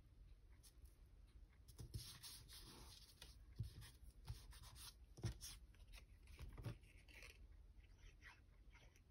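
Faint rustling and sliding of paper handled on a craft table, with a few light taps, mostly between about two and seven seconds in.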